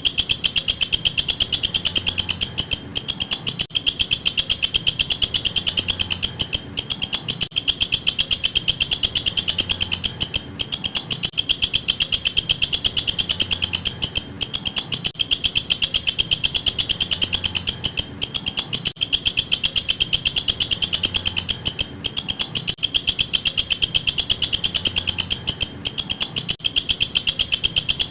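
Walang kecek katydid singing: a loud, high-pitched, rapid ticking trill that runs on, with brief breaks every second or few.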